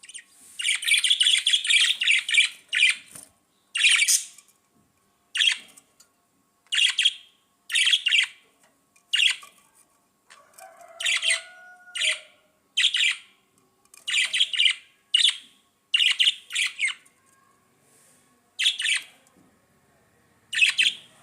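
Budgerigars calling: a burst of rapid chatter near the start, then a long series of short, sharp calls about one a second.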